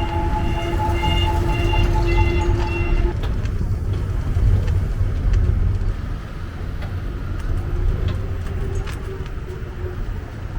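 Open electric shuttle car driving along, with a steady low rumble of wheels and wind. A steady tone sounds with it and stops about three seconds in.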